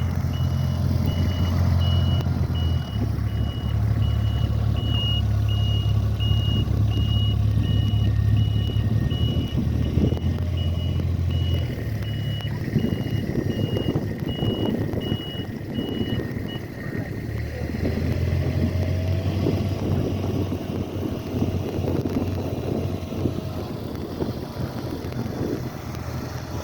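Snow plow truck reversing while back-dragging snow: its backup alarm beeps steadily and stops about two-thirds of the way through, over the truck's engine running.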